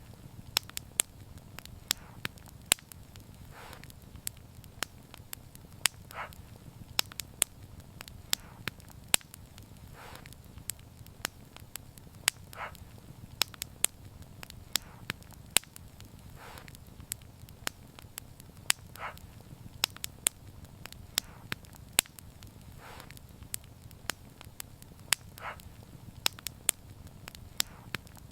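Wood fire burning, its logs crackling and popping with sharp snaps several times a second over a steady low rumble of the flames, with a short softer hiss every few seconds.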